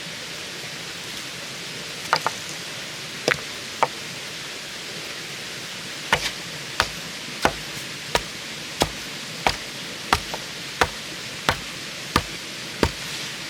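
Sharp tool strikes on bamboo, chopping or hammering: a few scattered blows, then a steady run of about one and a half strikes a second from about six seconds in.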